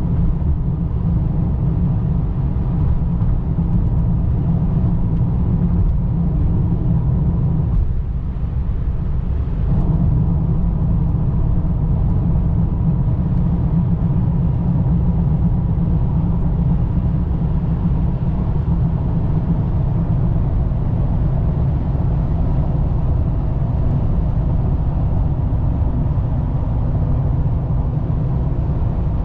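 2003 BMW 525i's inline-six running as a steady low rumble that eases briefly about eight seconds in.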